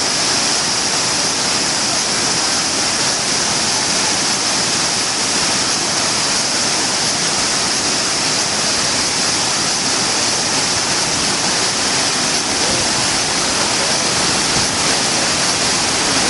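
Sekinoo Falls' waterfall pouring in a steady, unbroken rush of falling water.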